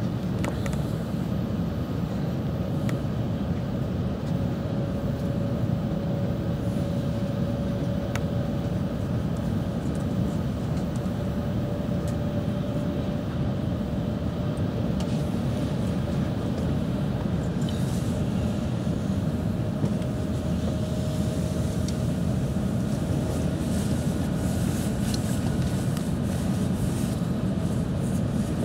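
Running noise inside a JR West 700 series Shinkansen car at speed: a steady low rumble of the train on the rails, with a faint whine slowly rising in pitch.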